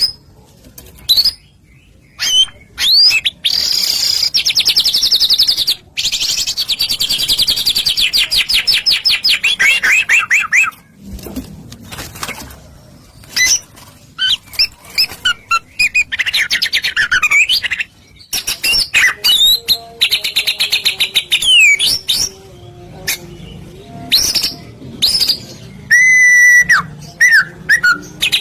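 White-rumped shama (murai batu) in full, energetic song: a loud, varied run of sharp whistles and clicks with long rapid trills, broken by short pauses.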